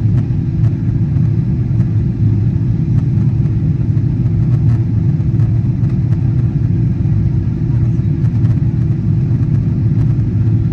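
Steady low rumble of a Boeing 777-200ER's cabin in descent, engine and airflow noise heard from an economy seat, with a constant hum under it.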